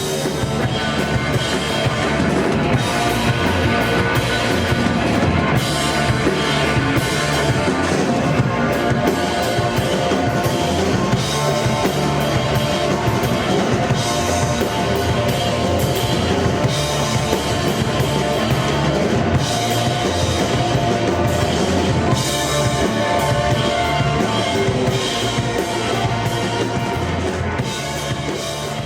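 Rock music with a full drum kit prominent, bass drum and snare keeping a steady beat under other instruments; it grows a little quieter near the end.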